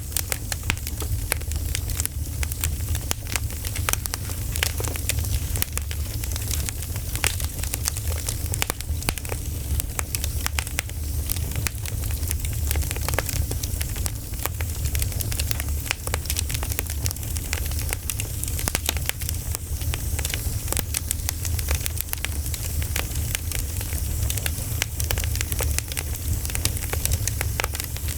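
Campfire crackling: a dense, continuous run of sharp pops and snaps over a steady low rumble.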